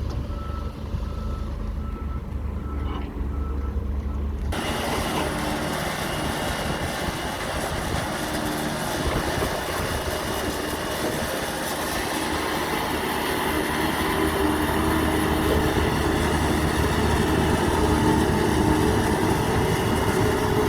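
Heavy diesel trucks at work: a backup alarm beeps steadily at first, then dense engine noise cuts in sharply about four seconds in and grows louder toward the end.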